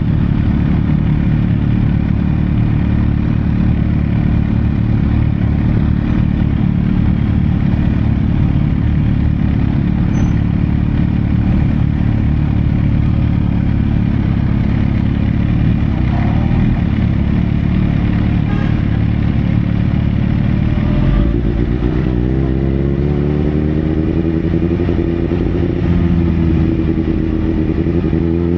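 Sportbike engine running with a heavy, steady low rumble. About three-quarters of the way through, its note starts climbing and dipping as the engine is revved.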